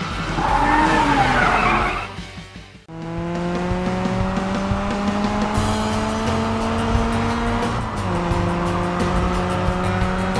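Cartoon vehicle sound effects over background music: a skidding, squealing noise for about two seconds that fades away, then an engine running and climbing steadily in pitch as it speeds up, dropping at about eight seconds as if changing gear and climbing again.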